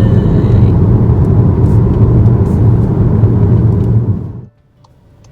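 Loud, steady low rumble of a car driving along a winding road, heard from inside the car; it cuts off suddenly about four seconds in.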